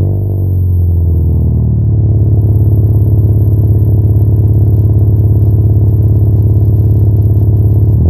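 2007 Hyundai Accent's four-cylinder engine running through a stainless-steel resonator exhaust, revved and held at a steady raised rpm. The pitch settles in the first second or two and then holds steady. The new resonator is not yet broken in, and the owner suspects an exhaust leak at the catalytic converter.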